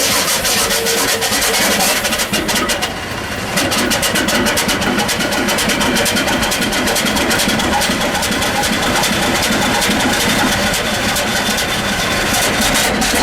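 Large vintage diesel engine running steadily, its rapid firing knocks coming in a dense even train, with a short dip about three seconds in.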